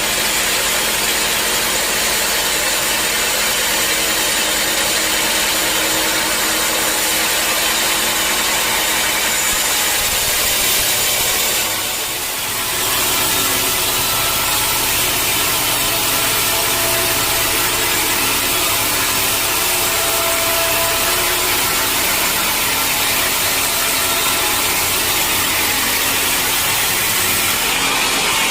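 Sawmill machinery running steadily, with a brief drop in loudness about twelve seconds in.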